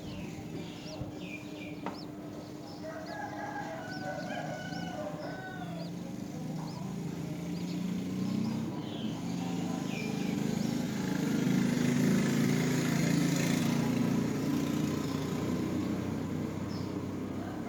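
Birds calling: a series of short high chirps, then a louder, lower, drawn-out call that builds to a peak about two-thirds of the way through.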